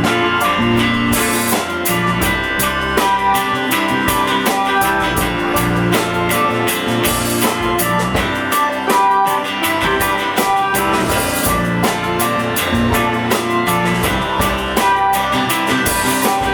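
Live rock band playing the instrumental intro of a song: electric guitars with bass and a drum kit keeping a steady beat.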